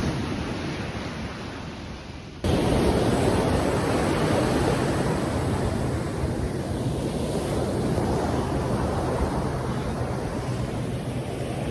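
Sea waves washing on the shore, with wind buffeting the microphone. About two and a half seconds in, the sound cuts abruptly to a louder, fuller stretch of surf.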